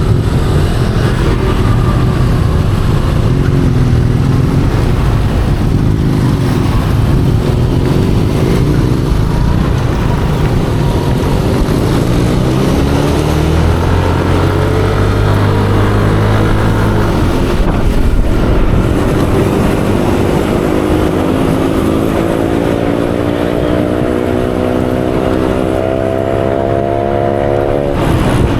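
Yamaha Aerox 155 scooter's single-cylinder engine running on the road, with road noise throughout; over the last several seconds its note rises steadily as the scooter speeds up.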